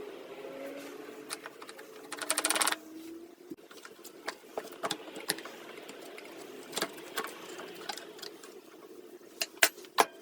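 Scattered sharp clicks and taps of tools and metal parts being handled, with a brief rapid rattle about two seconds in.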